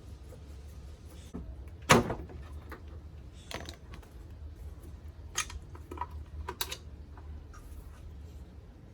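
Clicks and knocks of plastic and metal as a Honda CRX Si's front corner lamp is unscrewed and worked out of the fender, with one sharp knock about two seconds in and several lighter clicks after it.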